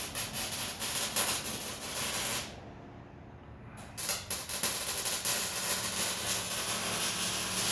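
A spray hissing steadily in two long bursts, broken by a pause of about a second and a half near the middle.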